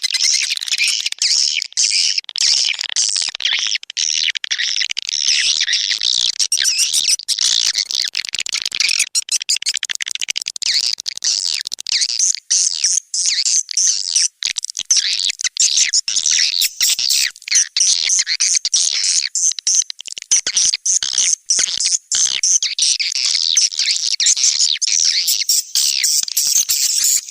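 Recorded swiftlet calls from a swiftlet-house lure track, the outdoor call played to draw swiftlets to a nesting house. It is a dense, unbroken chatter of rapid, high-pitched chirps and twitters.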